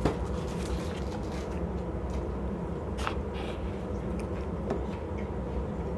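Steady low room hum with a few light, sharp clinks of cutlery and dishes at a meal: one at the start, one about three seconds in and a fainter one shortly after.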